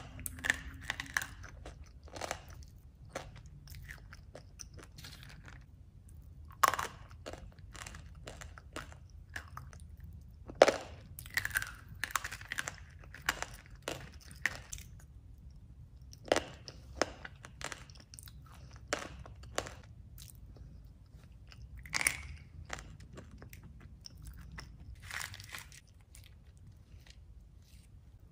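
Close-up chewing and crunching of a creamy chocolate dessert with crunchy chocolate pieces. The sharp crunches come in irregular clusters with quiet pauses between mouthfuls.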